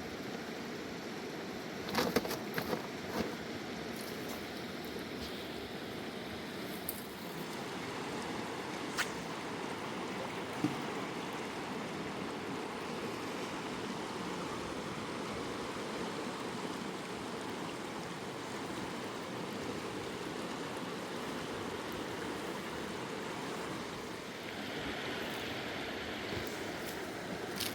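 Fast-flowing river water rushing steadily, with a few short sharp knocks about two seconds in and a couple more later.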